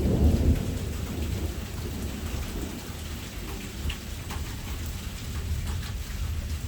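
A thunderclap bursts at the start and rumbles on, fading over the next few seconds, over steady rain with scattered drops ticking on a nearby surface.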